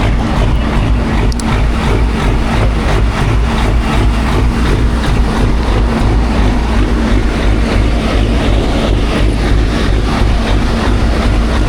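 Big diesel truck engine running with a heavy, steady rumble and an even pulse about four times a second.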